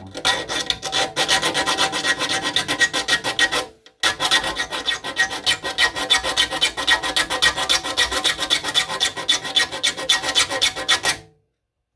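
Metal file rasping across the teeth of a hand saw in quick, even strokes while it is being sharpened. It breaks off briefly about four seconds in, then carries on until it stops near the end.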